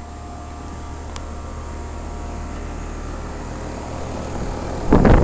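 Carrier central air-conditioner outdoor condensing units running: a steady compressor hum with fan air rush and a few steady tones, slowly getting louder. A loud rumbling burst near the very end.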